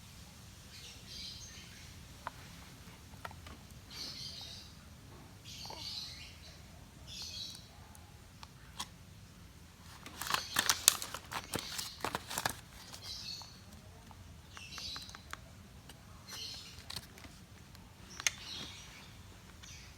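Bird chirping in short calls every second or two, with a quick cluster of sharp clicks or taps about halfway through.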